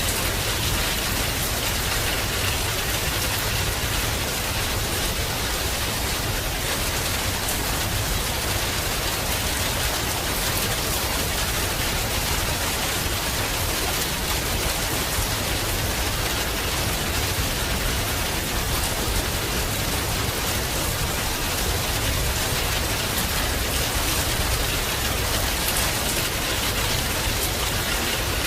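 Heavy rain falling steadily, an even hiss of many drops with no break or change in level.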